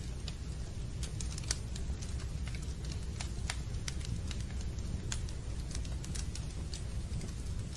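Fireplace fire crackling: irregular sharp pops and snaps over a steady low roar of the flames.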